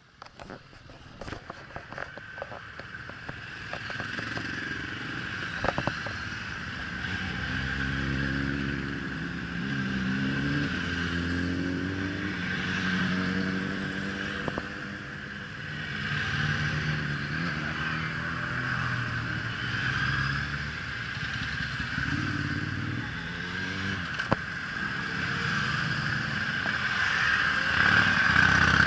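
A stream of motorcycles of mixed makes and engine sizes passing one after another, each engine note rising and falling in pitch as the bike goes by. The sound swells in over the first few seconds and is loudest near the end.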